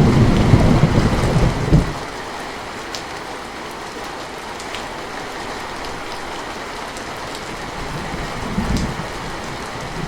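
Steady rain falling, with scattered sharper drop ticks. A loud low thunder rumble dies away about two seconds in, and a softer rumble swells briefly around eight and a half seconds.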